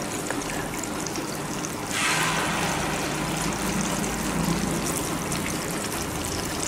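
Malpua batter frying in hot oil in a pan, a steady sizzle. About two seconds in the sizzle jumps suddenly louder and stays up, as fresh batter goes into the oil.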